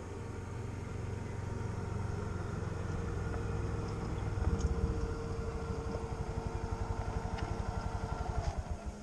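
A motor running steadily with a pulsing beat that grows slower and more distinct, then winds down near the end.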